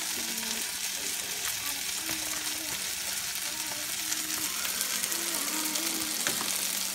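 Diced chicken sizzling steadily in a skillet, with a pot of penne at a rolling boil being stirred with a spoon.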